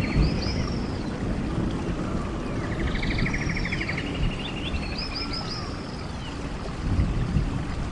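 Songbirds singing: a fast buzzy trill about three seconds in, then a run of quick arching whistled notes about two seconds later, over a steady low rumble.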